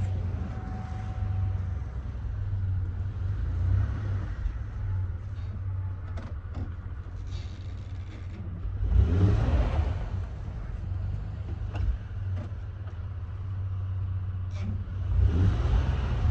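A stuck van's engine running with a steady low drone, revving up twice, about nine seconds in and again near the end, as its tyres spin in the snow without getting free.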